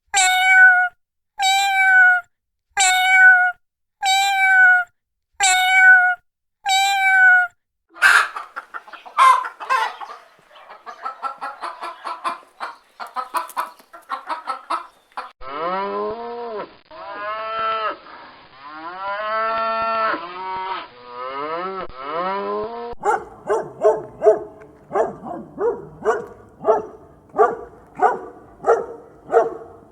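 A run of recorded animal calls from several different animals, one after another. It opens with six short, evenly spaced calls about a second and a half apart, then a jumble of clicks and short calls. After that come long calls that rise and fall in pitch, and near the end quick repeated calls.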